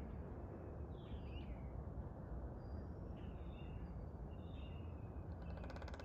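Faint bird calls, a couple of falling chirps and some short high notes, over a steady low background rumble. A rapid run of ticks begins near the end.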